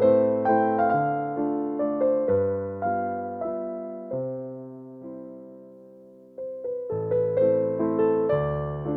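Background music: a gentle, slow piece on electric piano, single notes struck over held bass notes, thinning out and fading in the middle before picking up again.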